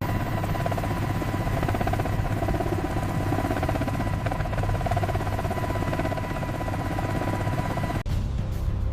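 A steady mechanical engine drone with a low hum and a constant high whine, cutting off suddenly near the end.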